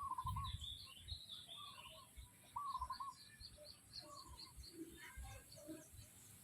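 Chickens calling: a short wavering call repeats every second or so, with high chirps or peeps in between and soft low knocks underneath.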